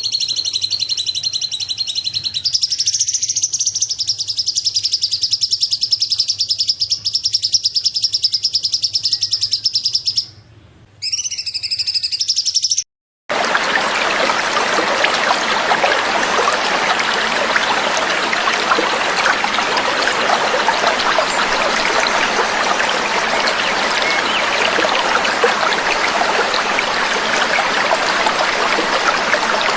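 A small songbird's rapid, continuous high trill for about thirteen seconds, with a brief break near ten seconds. It cuts off abruptly and gives way to a steady trickle of running water.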